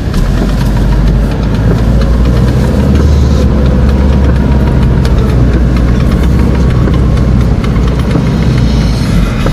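Engine of a four-wheel-drive vehicle, heard from inside its cabin, running steadily in low gear across a rough, wet field: a loud, steady, low rumble.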